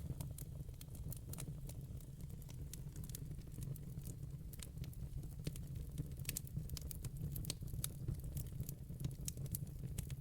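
Wood fire burning in a fireplace: logs crackling with frequent sharp pops, thickest about six seconds in, over a steady low rumble of the flames.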